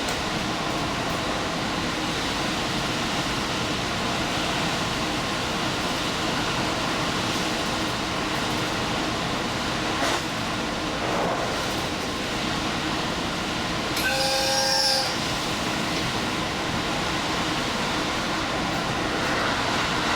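Diesel express train running at speed, heard from inside the leading car: a steady rumble of wheels and rails with a knock about halfway through. A short high ringing tone lasts about a second, roughly two-thirds of the way in.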